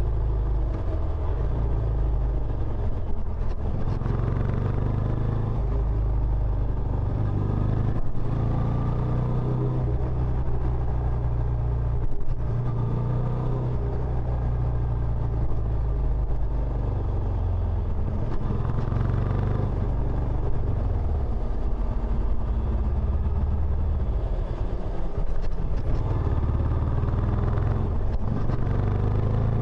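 Benelli Imperiale 400's air-cooled single-cylinder engine running through its stock exhaust, the low exhaust note rising and falling in pitch several times with changes of throttle.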